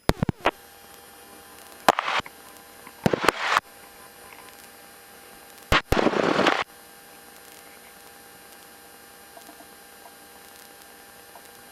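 Aircraft radio and intercom coming on: a steady electrical hum and hiss starts at once, broken by four short bursts of static crackle in the first seven seconds.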